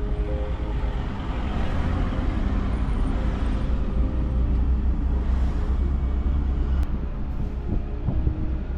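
Motor vehicle driving on the road: a steady, deep rumble of engine and road noise.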